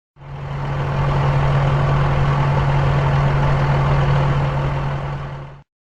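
Bulldozer's diesel engine running at a steady idle with a deep, even hum. It fades in over the first second and stops shortly before the end.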